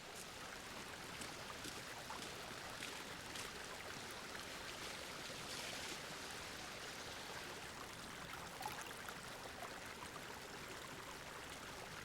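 Faint steady hiss of ambient noise, with a few light ticks.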